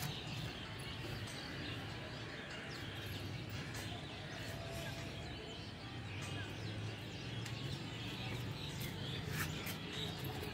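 Faint birds chirping now and then over a steady outdoor background hum, with a few light clicks.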